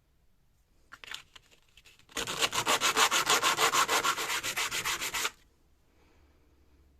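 Hand sanding on an old chisel being restored: a few separate scraping strokes, then about three seconds of quick, even back-and-forth rubbing that stops abruptly.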